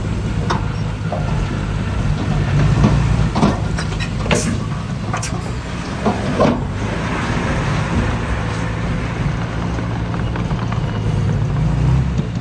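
Diesel engine of heavy earthmoving machinery running steadily under load, with several sharp metallic clanks and knocks, most of them in the middle of the stretch.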